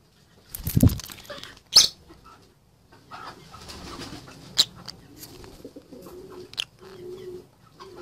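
Low, soft cooing bird calls, short and repeated roughly once a second through the second half. A loud thump comes about a second in, followed by a sharp click.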